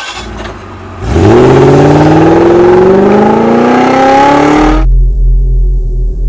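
Supercar engine accelerating hard, its pitch rising steadily for about four seconds from about a second in, then cutting off suddenly into a low steady rumble.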